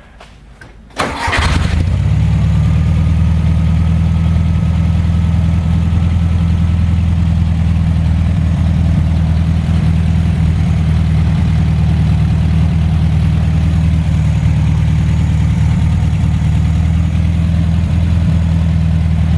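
A 1963 Volkswagen Beetle's air-cooled flat-four engine is started about a second in, catching almost at once on a brief crank, then idles steadily, heard close up at the open engine compartment.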